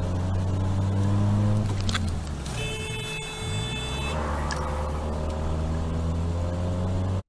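Car engine and road noise heard from inside the cabin by a dash camera, a steady drone that drops in pitch and level about two to three seconds in, then settles again. A sharp click about two seconds in, and a high steady tone for about a second and a half just after it.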